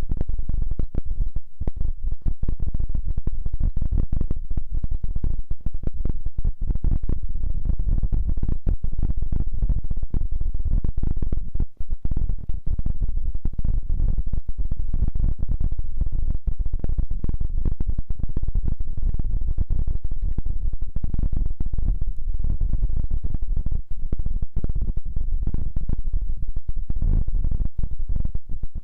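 Close, muffled rubbing and crackling directly on the microphone, mostly low and dense with constant small crackles: an ASMR touch trigger on the mic.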